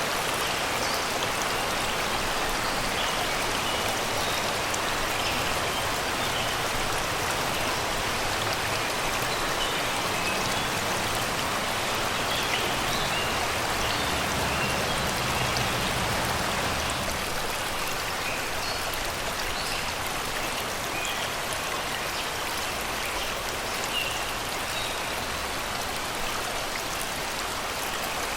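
Shallow river water flowing and babbling over rocks and stones, a steady rush, with faint short bird chirps from the forest scattered through it.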